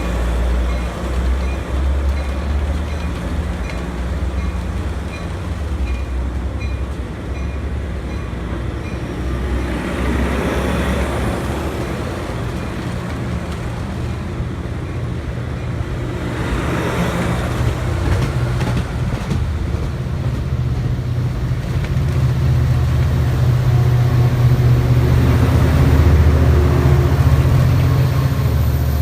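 Departing Amtrak passenger train with an EMD F59PHI diesel locomotive working under power: a steady low engine drone that grows louder toward the end.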